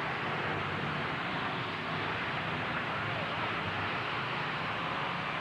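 Truck engines running during a demolition derby, heard as a steady, unbroken din.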